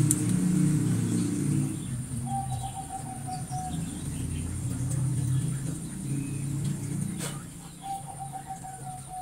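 A bird calling twice, each call a rapid pulsed trill of about a second and a half, over a low rumble that is loudest in the first two seconds. One sharp click about seven seconds in.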